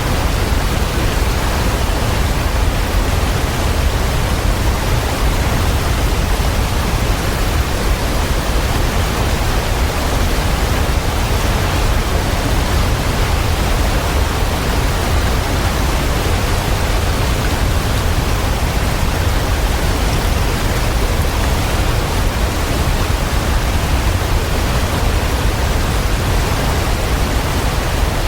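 Waterfall: a steady, unbroken rush of falling water with no changes or separate sounds, heaviest in the deep low end.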